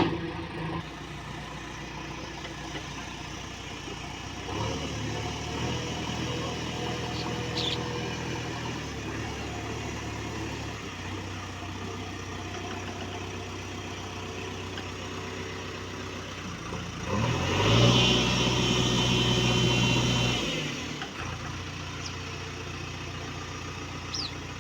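Diesel engine of a heavy machine running steadily, picking up slightly about four and a half seconds in. About two-thirds of the way through it revs up loudly for some three seconds, then settles back. A brief sharp knock sounds at the very start.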